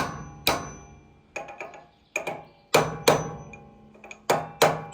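Hammer striking a steel socket extension used as a drift, about eight sharp metallic blows at uneven spacing, some in quick pairs, each leaving a brief ring, driving a key down into the keyway of a sawmill clutch shaft.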